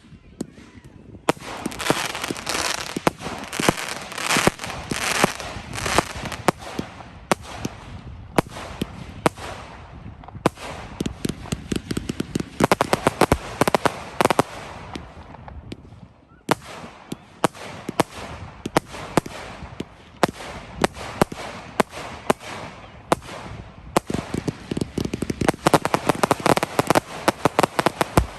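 Fireworks going off: dense crackling full of rapid sharp pops and bangs, coming in waves, with a brief lull about halfway through before it builds again.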